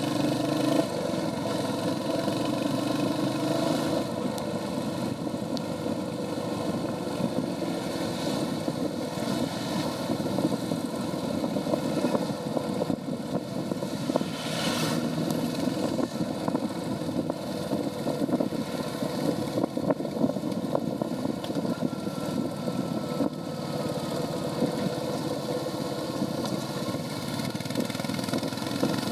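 Royal Enfield Hunter 350's single-cylinder engine and stock exhaust running steadily while the motorcycle is ridden. There is a brief hiss about halfway through.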